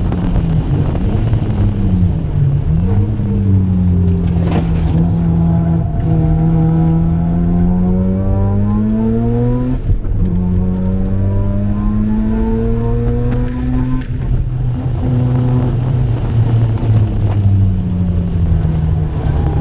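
Single-turbo Mazda RX-7 FD3S 13B rotary engine under hard acceleration. The revs climb steadily, fall sharply with a gearshift about ten seconds in, climb again, then drop off about fourteen seconds in and rise and fall unevenly.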